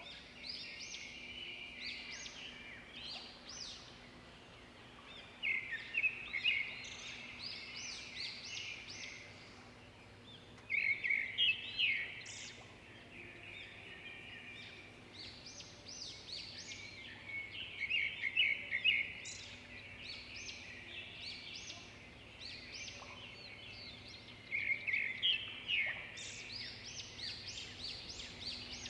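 Songbirds chirping and singing in rapid high-pitched bursts, with louder phrases every few seconds and a few quieter gaps between them.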